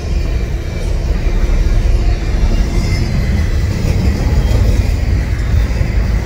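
Double-stack intermodal freight train's container-laden well cars rolling past, a steady, loud rumble of steel wheels on the rails.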